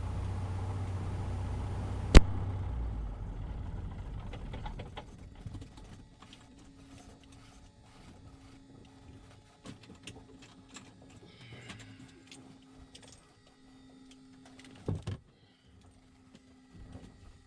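Cessna 150's engine running low in the cabin, then winding down and dying away within a few seconds, as at shutdown. A single sharp click sounds about two seconds in, and faint scattered clicks follow once it is quiet.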